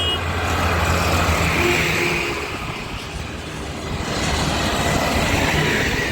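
Tractors driving past on the road, a steady low engine note with road noise that swells twice as they go by.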